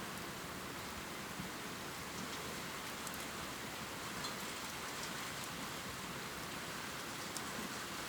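Steady heavy rain falling, an even hiss of rainfall with occasional faint drop ticks.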